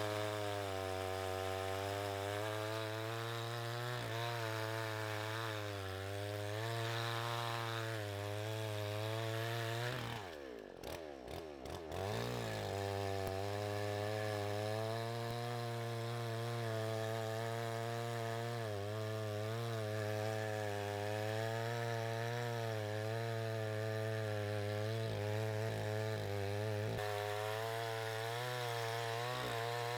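Small two-stroke chainsaw running under load, its pitch wavering up and down as it cuts; about ten seconds in the engine drops off briefly and then revs back up.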